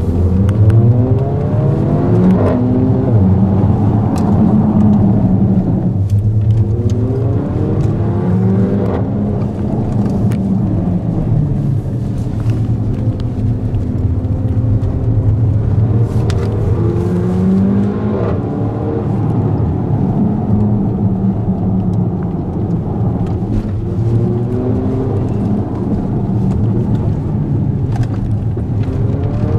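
Mercedes GLA 45 AMG's 360 hp turbocharged four-cylinder heard from inside the cabin under hard acceleration: the engine note rises again and again and drops back between pulls, over steady engine and road rumble.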